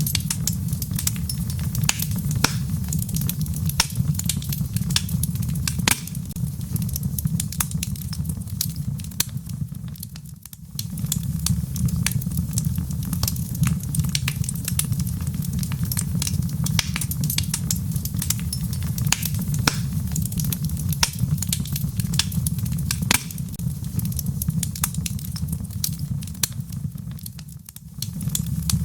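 Wood fire crackling in a fireplace: frequent sharp pops and snaps over a steady low rumble. The sound dips briefly twice, about ten seconds in and near the end.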